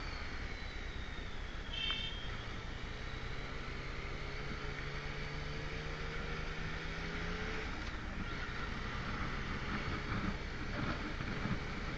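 Motorcycle engine running at a steady cruise with wind noise on the microphone. Its pitch drops a little about seven and a half seconds in, and a short high chirp is heard about two seconds in.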